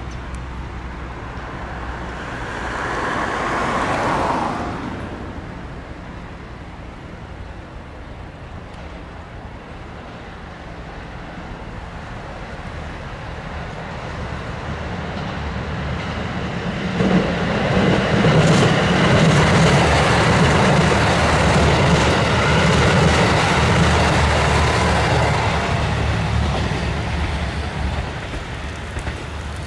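A passenger train running on the rails, growing louder, loudest from a little past halfway, then fading near the end. Early on, a separate sound swells and stops abruptly about four seconds in.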